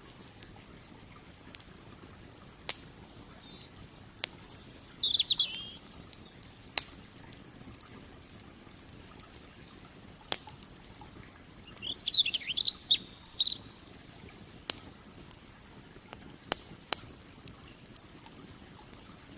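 Wood fire crackling, with sharp scattered pops over a faint steady murmur of flowing creek water. A small bird twitters in two short bouts, about four seconds in and again around twelve seconds.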